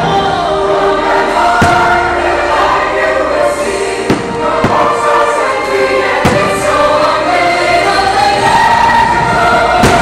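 Fireworks show soundtrack with a choir singing over orchestral music, played loud over park loudspeakers, with about five firework bursts thudding through it.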